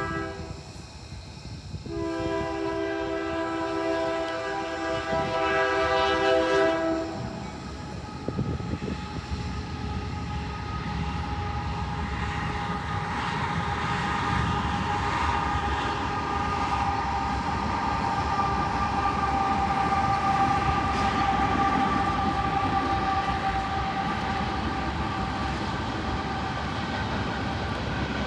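Union Pacific diesel locomotive's multi-chime air horn sounding a short blast, then a long blast of about five seconds. The locomotives and coal train then pass with a steady rumble and a high steady whine.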